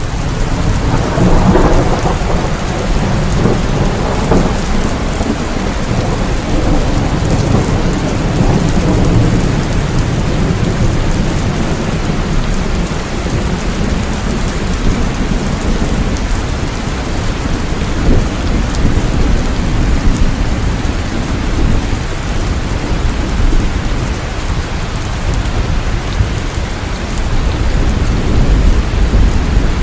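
Steady heavy rain, with a deep rumble swelling about a second in and again near the end.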